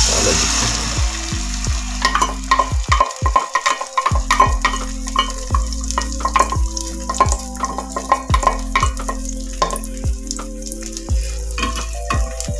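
Beaten egg and diced potato poured into hot oil in a frying pan, hitting it with a sudden loud sizzle that carries on as steady frying with crackles.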